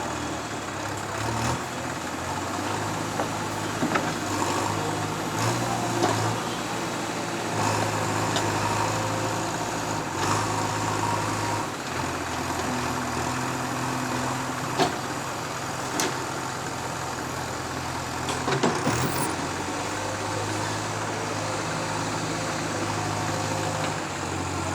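Heavy diesel engine running steadily, its pitch shifting up and down now and then, with a few sharp knocks.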